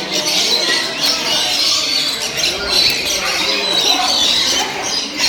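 A flock of many birds chattering and squawking loudly and without pause, with a few people's voices mixed in.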